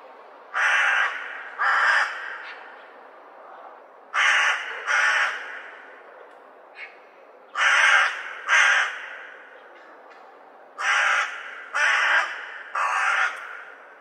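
Crows cawing: harsh caws of about half a second each, in two pairs, a second pair after a short faint call, then a run of three near the end, with pauses between groups.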